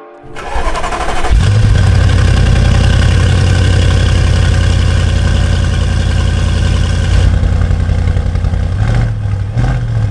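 Audi RS6 engine starting up, then idling loudly and steadily, with a couple of brief changes in engine note near the end.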